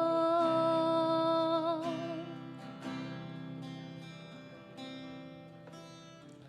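Worship song: a singer holds the last note of a line for about two seconds over acoustic guitar, then the guitar strums on alone, growing quieter.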